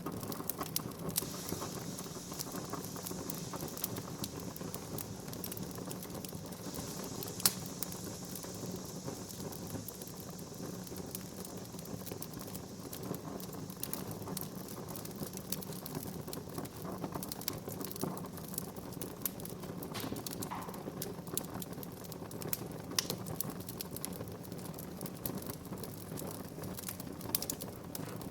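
Wood fire burning in a fireplace, crackling with irregular sharp pops, one louder snap about seven seconds in, over a steady low rumble of flames. A soft hiss runs through the first third.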